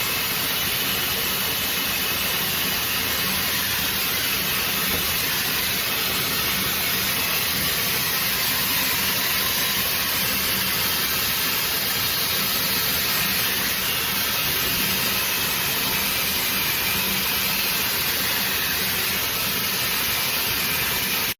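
Shark FlexStyle hair dryer running: a steady rush of blown air with a faint motor hum underneath. It cuts off abruptly at the end.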